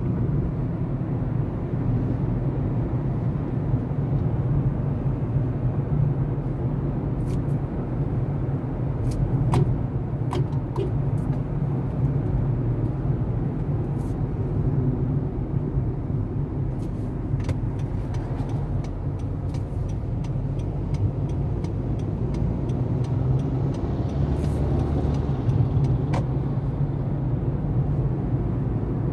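A motor vehicle running steadily: a low, even engine hum with road noise. Scattered sharp clicks are heard, and a run of regular ticks comes in the middle.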